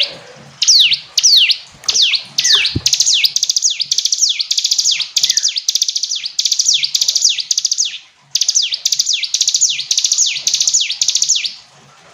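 Mountain prinia (ciblek gunung) singing loudly: a long run of sharp, down-sweeping notes repeated several times a second, stopping about a second before the end.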